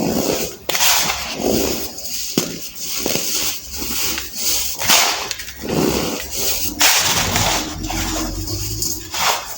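Baked baking soda clumps being crushed by hand: a string of irregular crunches, about one a second, with a few sharp cracks among them.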